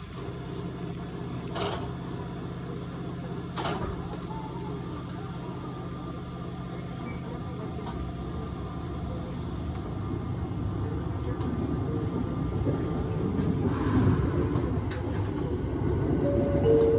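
Aoimori Railway 701-series electric train heard from on board: a steady low hum with a couple of faint clicks. From about halfway through, its running noise grows steadily louder as the train picks up speed.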